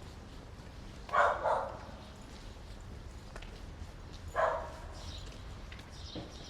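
A dog barking: a quick double bark about a second in, then a single bark about three seconds later.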